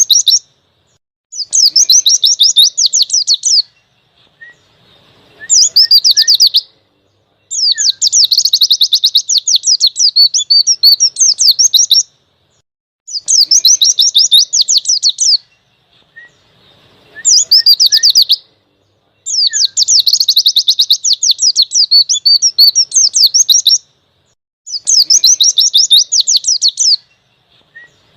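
Pleci (white-eye) song: about seven loud bursts of fast, high trilling, each one to four seconds long, with short pauses between them and a few soft chirps in the gaps.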